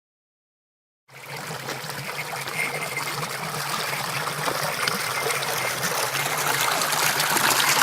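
Running water of a small stream or mountain waterway, a steady rushing that starts about a second in and slowly grows louder.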